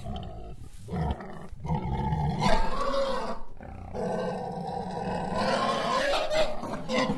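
Male lion roaring in two long calls, with a short break about three and a half seconds in.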